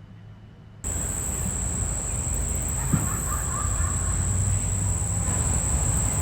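Outdoor insect chorus: a steady high-pitched chirring that starts suddenly about a second in, over a low rumble of wind on the microphone.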